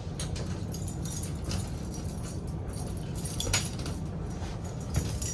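A bunch of keys jangling and rattling in irregular clicks as a key that has got stuck in a lock is worked, over a steady low hum.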